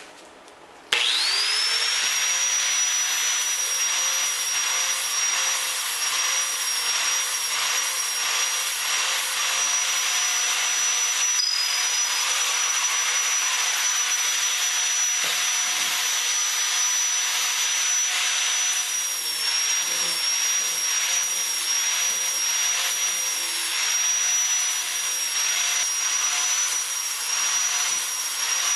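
Angle grinder with a flap disc starting up about a second in with a quickly rising whine, then running with a steady high whine over the hiss of the disc sanding the workpiece.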